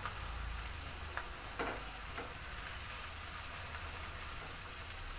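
Mola carplet fish and potato sticks frying in oil in a non-stick kadai: a steady sizzle, with a few light knocks of a wooden spatula in the pan between one and two seconds in.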